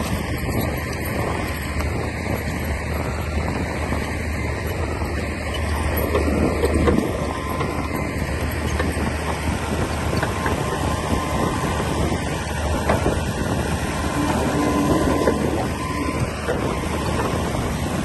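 Komatsu D60P crawler bulldozer's diesel engine running steadily under work, with a continuous irregular mechanical clatter.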